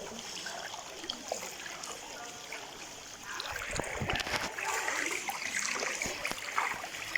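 Floodwater splashing and trickling, with scattered small splashes that grow busier about three seconds in.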